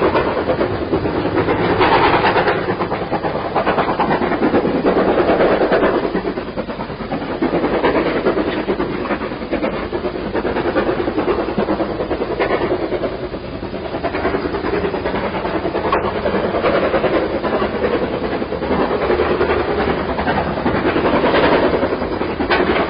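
Steam-hauled heritage train running along the line, a steady rolling rumble that swells and eases every two to three seconds.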